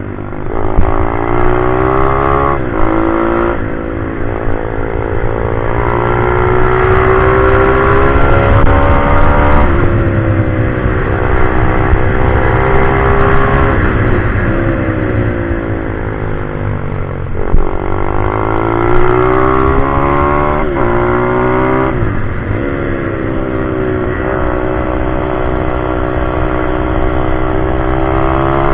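Pit bike's small single-cylinder engine, revved hard and running loud. Its pitch climbs through the gears and then drops back sharply several times as the bike brakes for corners and accelerates out again.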